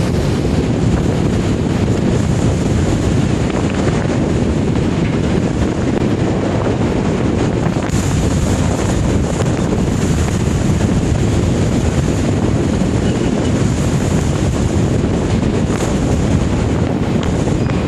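Storm wind buffeting the microphone over the steady rush of heavy sea and breaking waves, during a typhoon at sea.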